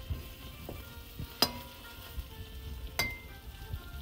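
Chicken pieces sizzling as they brown in hot oil in a round-bottomed metal pot while being stirred. A metal spatula clinks sharply against the pot twice, about a second and a half apart.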